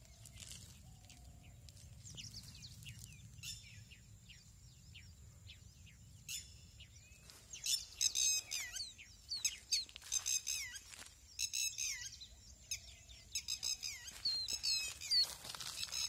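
Birds calling: a string of short, quick downward-sliding chirps in the first few seconds, then louder runs of rapid, repeated high-pitched calls from about six seconds in.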